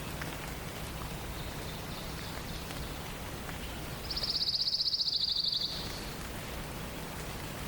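A songbird sings a rapid, even, high-pitched trill lasting about a second and a half near the middle, with a fainter trill a few seconds before it. Underneath runs a steady rain-like hiss of forest ambience.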